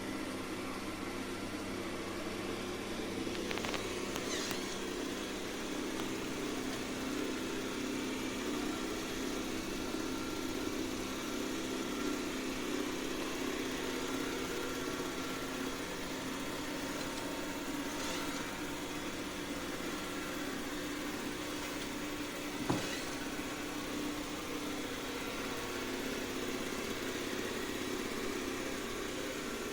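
Dreame X50 Ultra robot vacuum running, a steady motor and suction hum with a few faint clicks.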